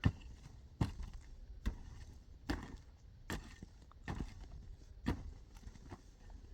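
A steady series of sharp knocks or thuds, a little more than one a second.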